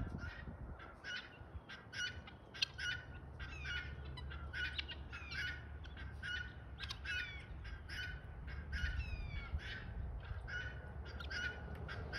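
Birds calling over and over, about two harsh calls a second without a break, some with a falling note.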